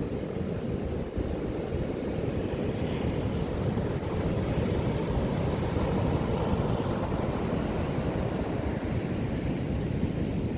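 Heavy ocean surf breaking and washing up the beach, a steady rushing noise that swells a little in the middle, with wind buffeting the microphone.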